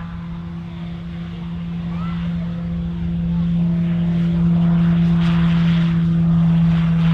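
Short Skyvan twin-turboprop aircraft running with a steady propeller drone that grows steadily louder, a rushing hiss building over it in the second half.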